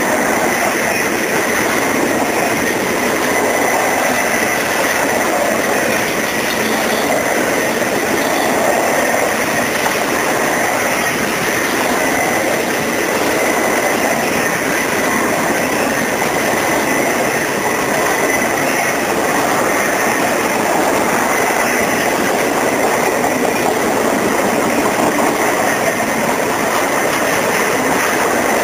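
Empty intermodal flatcars of a Norfolk Southern freight train rolling past, making a steady, even noise of steel wheels running on the rails. A thin, steady high tone runs through it.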